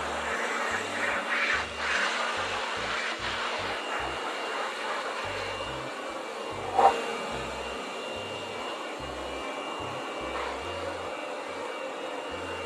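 Corded electric handheld blower running steadily, a rush of air with a high whine, its nozzle aimed at a wet tiled floor. A single sharp knock about seven seconds in is the loudest moment.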